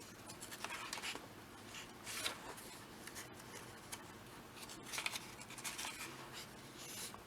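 Faint, intermittent rustling and brushing of paper as a comic book is handled and its pages are turned.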